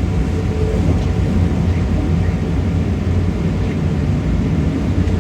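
Vintage tram running: a steady low rumble of motors and wheels on the rails.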